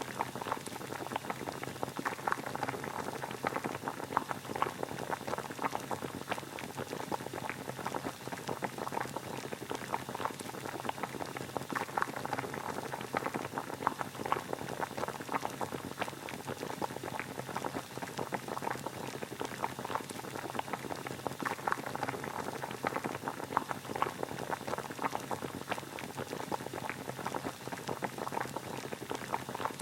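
Water boiling: a steady, dense bubbling and popping.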